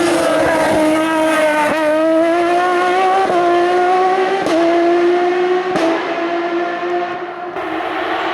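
Race car engine accelerating hard up the hill, its note climbing through about four quick upshifts roughly every second and a half. Each shift brings a short crack and a small dip in pitch.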